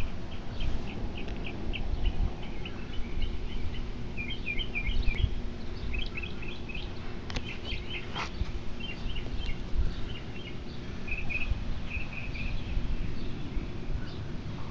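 Small birds chirping in quick runs of short, high chirps, over a steady low background rumble, with a single sharp click about eight seconds in.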